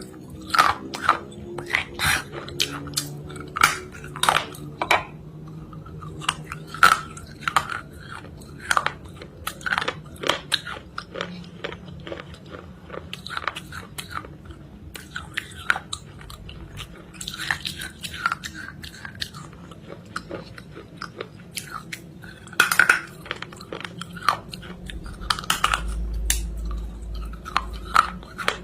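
Close-up crunching as someone bites and chews a dry, hard, crumbly lump: sharp crunches come in irregular runs, a few a second, with short pauses between runs. A low rumble joins near the end.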